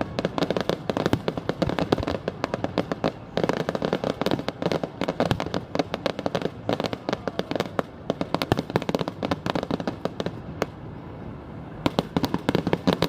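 Fireworks display: a dense, rapid run of bangs and crackling, thinning out briefly about ten seconds in before picking up again.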